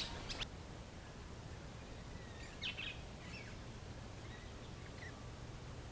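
Faint birds calling outdoors, a few short high chirps, clearest a little before the middle, over a low steady rumble.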